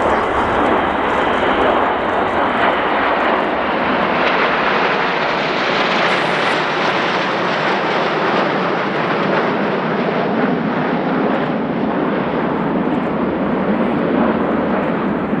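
Fixed-wing aircraft flying past at display, loud steady engine noise that is brightest about six seconds in and then slowly eases.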